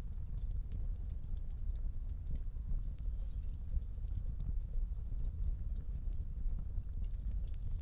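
Wood fire burning in a fireplace: many small, sharp crackles and pops over a low, steady rumble of the flames.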